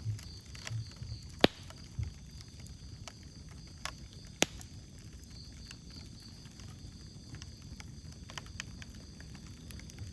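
Wood fire crackling, with scattered small snaps over a low rumble of flame. Two sharp, loud pops come about a second and a half in and again about four and a half seconds in.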